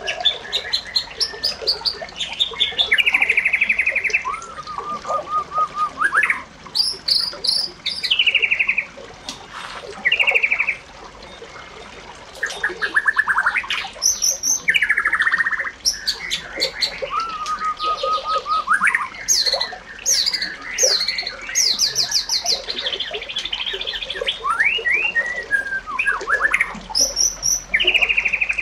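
Bird song: a continuous run of varied chirps, rapid trills and sweeping whistled notes, with short pauses between phrases.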